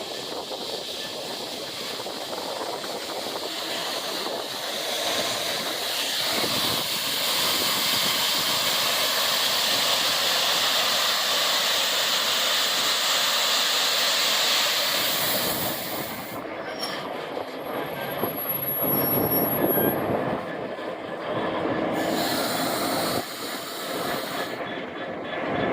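Railhead treatment train on the move: the train's running and rolling noise over the rails, with a steady hiss that builds to its loudest in the middle and then drops off sharply about two-thirds of the way through.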